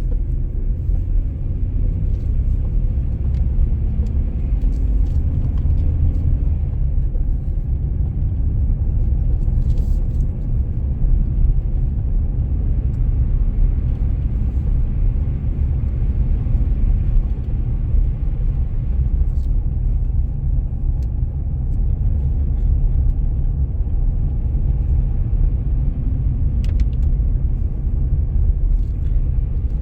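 Car on the move: a steady low road and engine rumble, with a faint engine hum that drifts slowly in pitch and a few light clicks.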